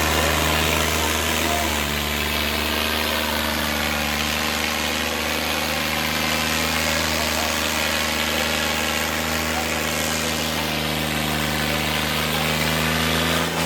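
Tractor diesel engine running steadily at an unchanging speed.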